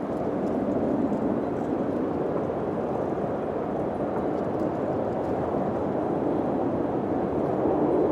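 Wind blowing steadily, a low, rushing noise that swells slightly about a second in.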